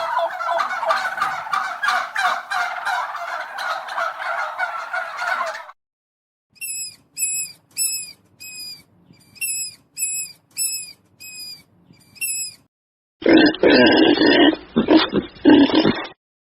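A run of different animal calls: a dense, rapid rattling call for about six seconds, then about a dozen short high chirps repeated roughly twice a second, then rough lower calls starting near the end.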